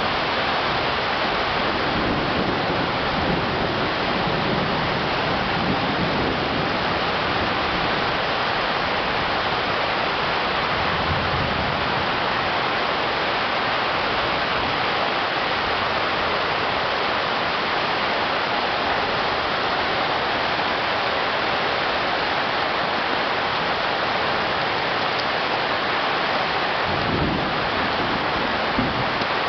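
Heavy downpour of a tropical rainstorm: a steady, dense rush of rain, with a few brief low rumbles along the way.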